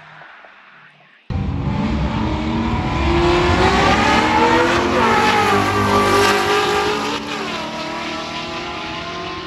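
Street race car engine accelerating hard, starting abruptly about a second in. Its pitch climbs, breaks at a gear change about five seconds in, climbs again, then falls away after about seven seconds as the car eases off.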